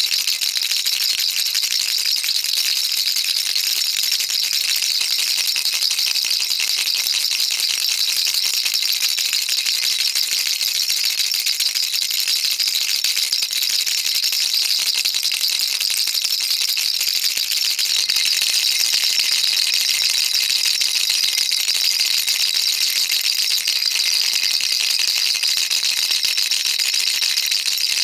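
Baby rattle shaken steadily, a dense run of fine high clicks from the beads inside, with a slight change in texture about two-thirds of the way through.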